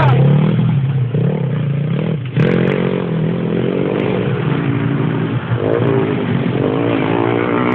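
Motocross dirt bike engine running, its pitch rising and falling several times as it is revved and eased off.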